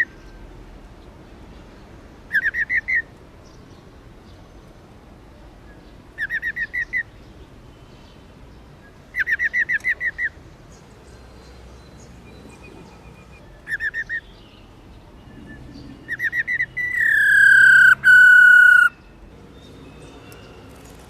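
Female black-throated laughingthrush giving its 'ro ro' call: five short bursts of rapid rattling notes a few seconds apart, then a long, slightly falling whistled note near the end.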